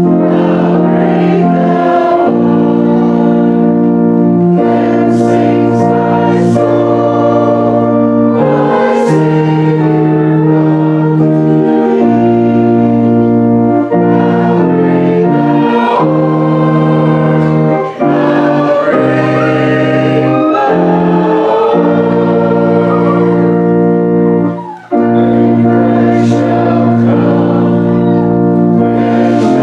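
Congregation singing a hymn together with organ accompaniment, in held chords that change every second or two, with a brief break between lines near the end.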